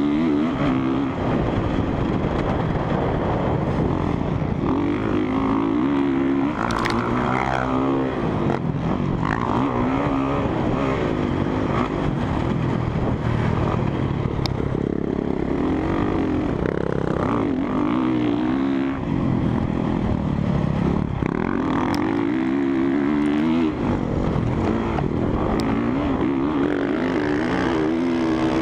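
Honda CRF450R dirt bike's single-cylinder four-stroke engine being ridden hard, its pitch climbing and dropping over and over as the throttle is opened and chopped, with a few sharp clacks along the way.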